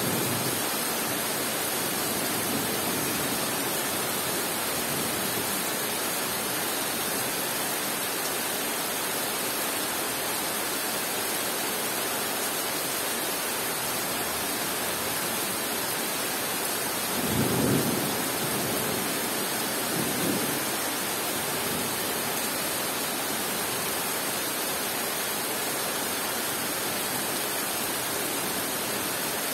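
Heavy rain falling steadily on forest foliage. A low roll of thunder rumbles a little past halfway, with a fainter one about two seconds later.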